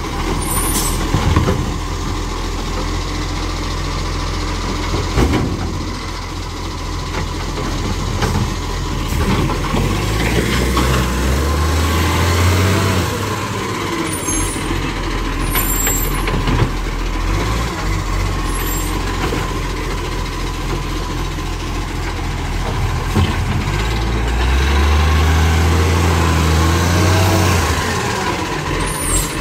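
Garbage truck diesel engine running, revving up twice for several seconds each time, with short air hisses in between.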